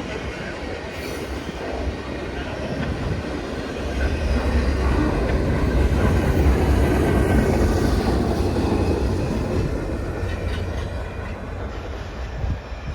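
Freight train rolling past, its wheels clattering and rumbling on the rails. It grows louder a few seconds in, then slowly eases off.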